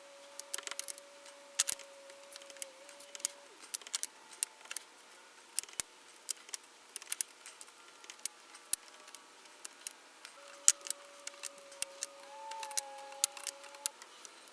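Irregular sharp clicks and taps of small hard objects being handled, a few a second, with a faint steady tone in the background during the first few seconds and again near the end.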